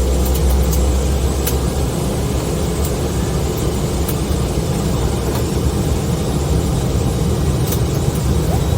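Steady airliner cabin noise on approach: a low engine drone under the rush of air past the fuselage, with a few faint clicks.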